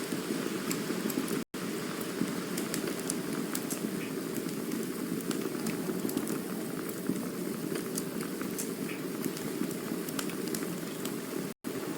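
Campfire burning: a steady low rushing hiss, dotted with frequent sharp little crackles and pops. The sound cuts out for an instant twice, once early and once near the end.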